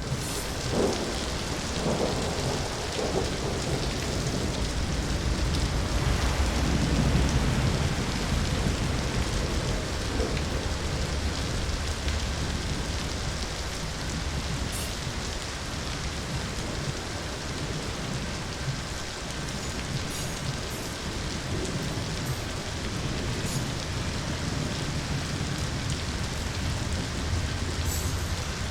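Steady rain with a long low roll of thunder that swells a couple of seconds in and fades after about ten seconds.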